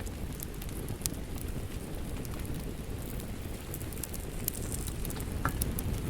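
Wood fire crackling in a fireplace: a steady low rumble of flames with scattered sharp pops and snaps from the burning wood.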